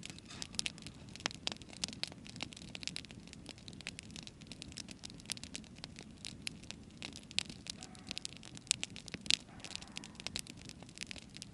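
Campfire crackling: wood burning with irregular sharp pops and snaps, several a second, over a steady low rumble.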